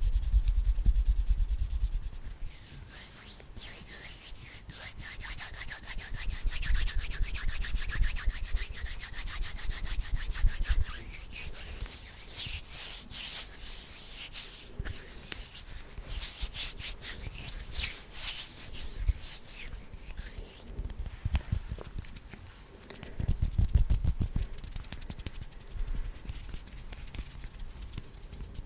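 Bare hands rubbed together fast close to the microphone: a dense run of quick, dry rustling strokes that swells and fades, with a louder burst near the end.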